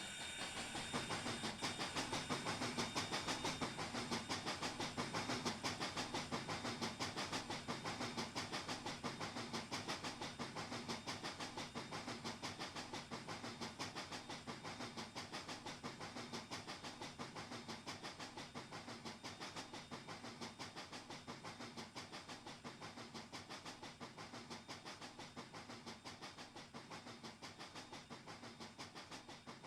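Doubleheaded Pennsylvania Railroad steam locomotives 7002 and 1223 working under steam, their exhaust chuffing in a fast, steady beat with hissing steam. The chuffing is loudest a few seconds in, then fades steadily as the train moves away.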